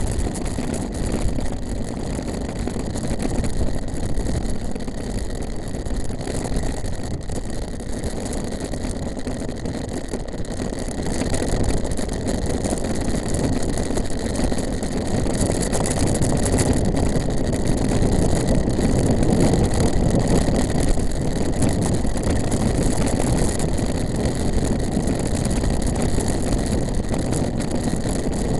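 Continuous wind rush on the microphone of a mountain bike ridden at speed, mixed with tyre noise on the track; it grows louder about twelve seconds in.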